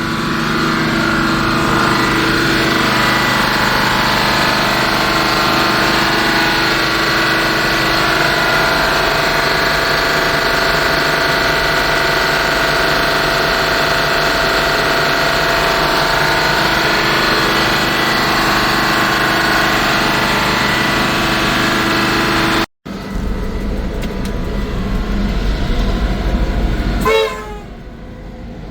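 Diesel locomotive's head-end power generator set running steadily just after starting, a loud even drone with several held whining tones. About 23 seconds in the sound cuts to a deeper, lower rumble.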